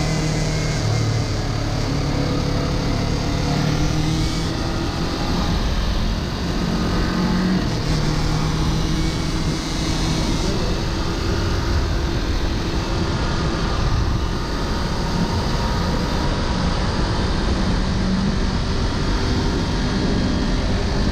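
Kawasaki Ninja 400 parallel-twin motorcycle engine running, with a steady wash of wind and road noise and a whining noise that comes up about eight seconds in. The owner can't say what causes the whine.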